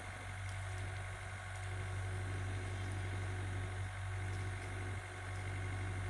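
An engine idling steadily: a low, even hum with no revving.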